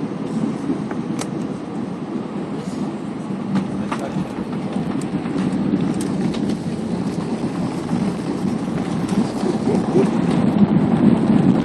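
Airbus A320 cabin noise: a steady low rumble of engines and rushing air that slowly grows louder, with a few faint clicks and rattles.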